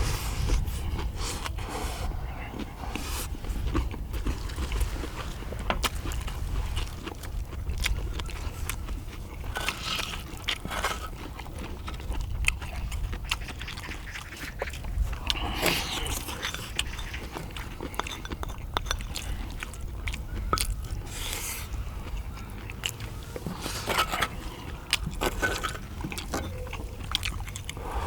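Eating sounds: chewing and biting, with scattered clicks and scrapes of utensils.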